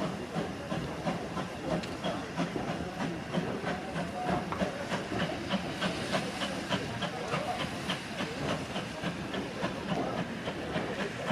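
Steam locomotive letting off a steady hiss of steam, with a quick run of regular short beats over it.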